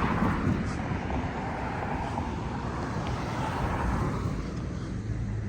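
Steady vehicle noise, a broad rush with no clear beat or pitch.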